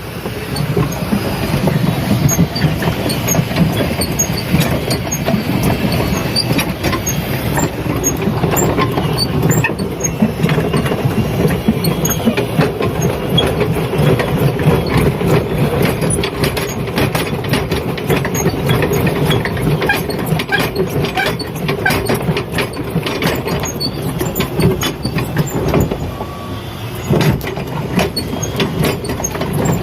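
Motorboat engine running steadily, with many small clicks and knocks over it.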